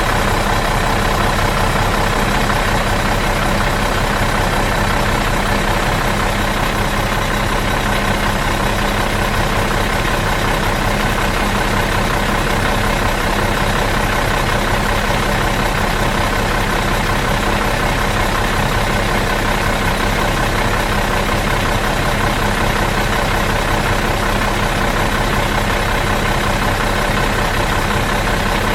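Bus diesel engine idling steadily in neutral, an even, unchanging rumble with a steady hum.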